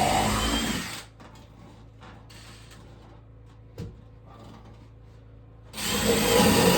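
A power tool running, cutting off about a second in and starting up again near the end. In between there are faint clicks and one short knock.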